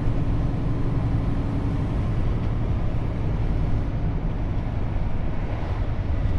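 Scania truck's diesel engine and road noise heard steadily from inside the cab while driving.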